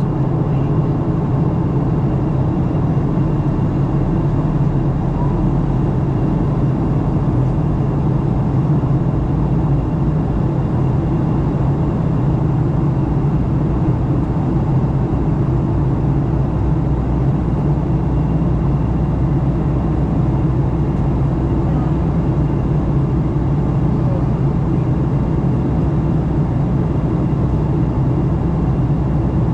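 Steady cabin noise inside a Boeing 737-900 in flight: an even, unchanging roar of its CFM56-7B jet engines and airflow over the fuselage, with a faint high steady tone above it.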